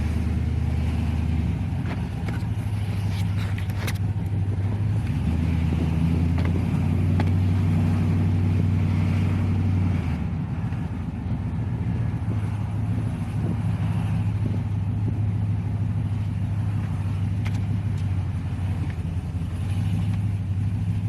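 Chevy Silverado's LS V8 and aftermarket exhaust running while the truck is driven, the engine note changing pitch several times. No whine is heard from the new 3.73 ring-and-pinion gears.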